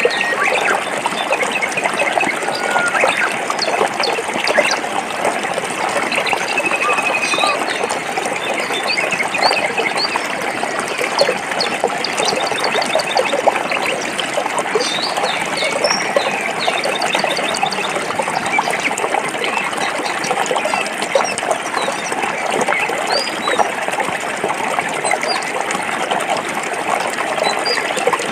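Forest stream running over rocks, a steady rush and splash of water. Small birds chirp intermittently above it, with a short trill about three seconds in.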